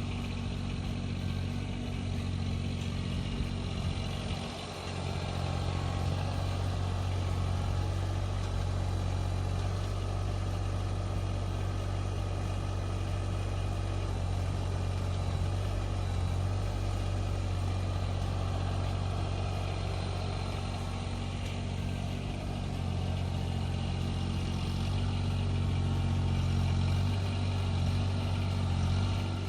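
An engine running steadily, with a brief drop in level about four and a half seconds in.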